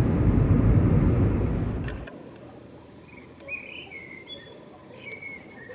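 A loud, steady vehicle rumble that cuts off suddenly about two seconds in. It is followed by quiet outdoor ambience with a few short bird chirps.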